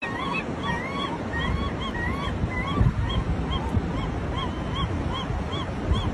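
Birds calling over wind noise on the microphone: a steady series of short honking calls, about two or three a second. In the first half a second bird gives longer rising calls.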